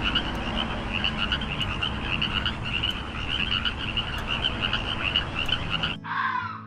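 A chorus of frogs calling, many rapid pulsed croaks overlapping in a steady din. It cuts off abruptly about six seconds in, and a single short call falling in pitch follows.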